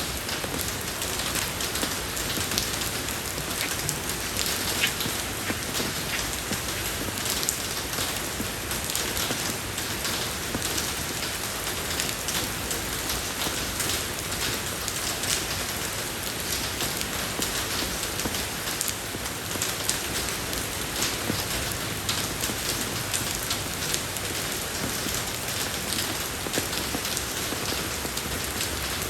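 Steady rain falling on a road surface, an even hiss of many drops with fine individual drop patters.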